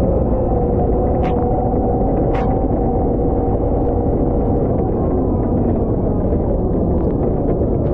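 Diesel engine of a Volvo L110 wheel loader running steadily under load while plowing snow, a deep rumble with a steady whine over it. Two sharp clicks come in the first few seconds.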